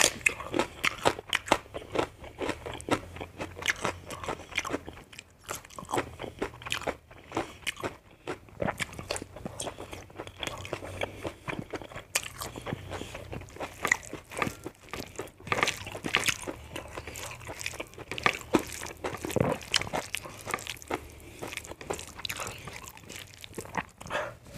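Close-up eating sounds: chewing and biting into fried pork sausage, rice and raw onion eaten by hand, with irregular crunches and wet mouth clicks several times a second.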